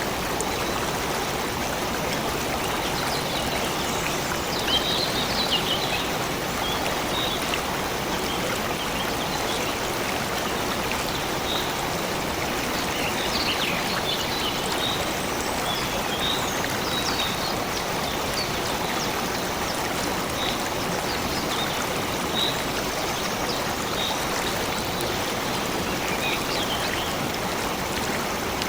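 Steady running water of a flowing stream, with short high bird chirps scattered throughout.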